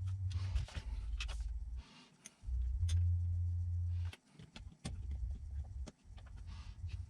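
Light clicks and taps of small hard parts being handled, over a low rumble that drops out briefly several times.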